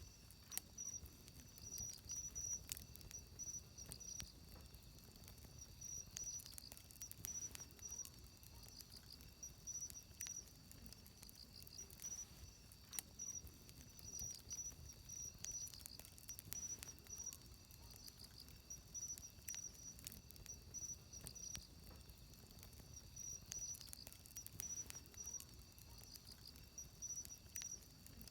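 Quiet wood campfire crackling with scattered sharp pops, over insects chirping in repeating high pulsed trills.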